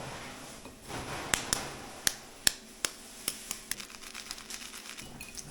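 Hard-boiled eggshells being tapped and cracked against a hard surface: a quick, uneven run of sharp clicks, loudest in the middle and thinning out near the end.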